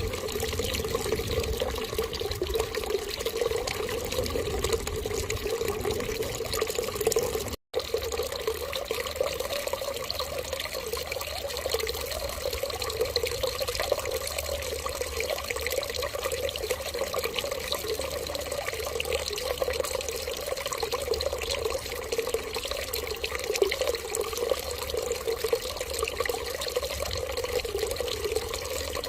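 Water running in a steady stream, even and unchanging, with a momentary cut to silence about seven and a half seconds in.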